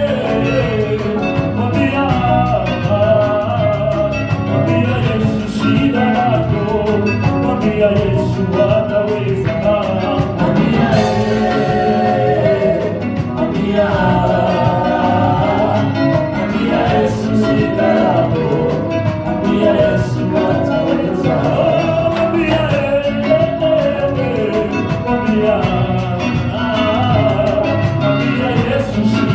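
Gospel worship music: voices singing together over a band with a steady beat.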